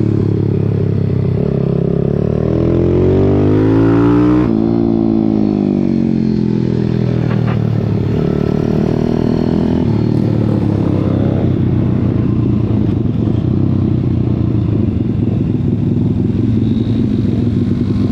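Pit bike's small single-cylinder engine racing, heard close up from onboard. The revs climb for about three seconds, then drop abruptly, as at a gear shift or throttle lift. They pick up again midway and then hold rougher and steadier.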